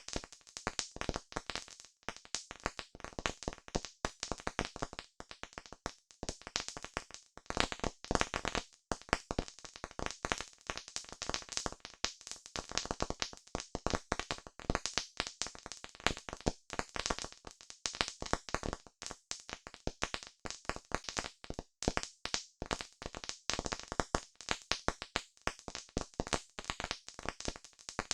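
Wood campfire crackling: a dense, irregular run of sharp pops and snaps, several a second, over a faint hiss.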